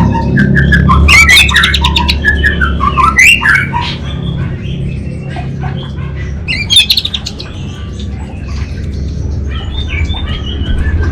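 Orange-headed thrush singing a varied song of whistled phrases and fast rattling trills, the loudest trills about a second in, about three seconds in and near seven seconds in. A steady low hum runs underneath.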